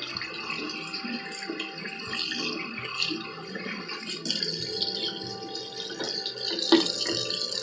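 Bird seed being rinsed and drained in a strainer: water running and trickling while the wet seeds rattle, with a sharp knock a little before the end.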